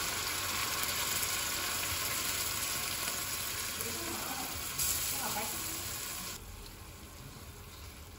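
Canned sardines in tomato sauce sizzling in hot oil in a frying pan, a steady hiss with a knock about five seconds in as the can is shaken out over the pan. The sizzle drops away abruptly about six seconds in.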